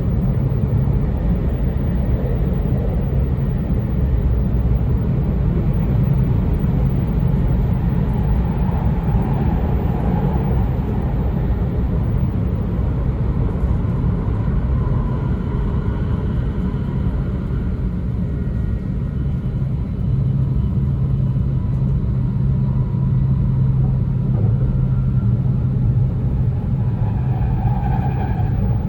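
Running noise inside an E2 series Shinkansen car at speed: a steady rumble of wheels and track under the floor, with a low hum and faint higher tones that come and go.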